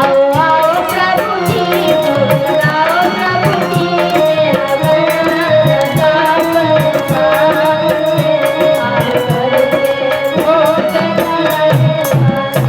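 Hindi devotional aarti song: a woman singing a wavering melody over steady tabla drumming and instrumental accompaniment.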